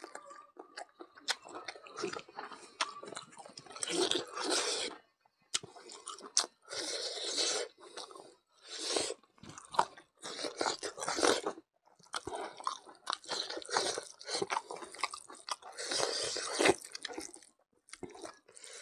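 A man chewing and crunching mouthfuls of stewed mithun intestine, rice and king chilli, in irregular bursts with small clicks and smacks.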